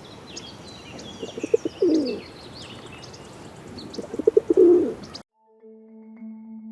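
A pigeon cooing twice, each coo a quick run of low pulses running into a longer swelling note. Small birds chirp in the background. The bird audio cuts off near the end, and soft mallet-instrument music comes in.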